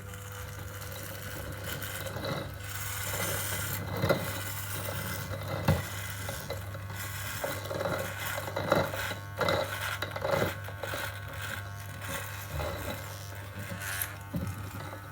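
Irregular rubbing and scraping with scattered small knocks, over a steady low hum.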